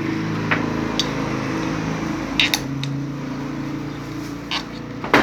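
A steady mechanical hum with a few light clicks and taps of metal parts being handled while a washing machine spin-dryer motor is fitted.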